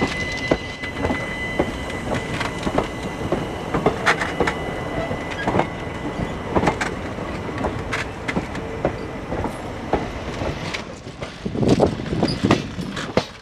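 Passenger coaches rolling slowly past at close range, their steel wheels clattering and knocking over rail joints, with a thin steady high squeal in the first few seconds. Near the end a louder low rumble and a run of clatter as the bogies cross the points right beside the track.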